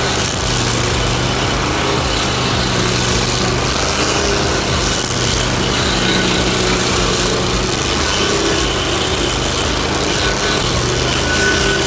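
Rescorp Stump Humper stump grinder's 27 HP engine running steadily at constant speed while its cutter wheel grinds through a stump.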